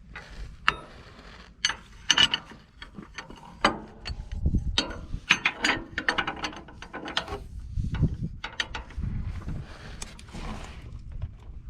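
Hand tools working on a dump truck's engine mount bolts: irregular metallic clicks, ratcheting and clanks of metal on metal, with some low rumbling between them.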